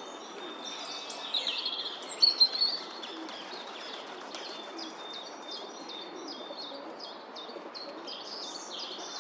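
Small birds chirping and twittering in a busy stream of short, high calls, with a louder cluster of calls about a second in.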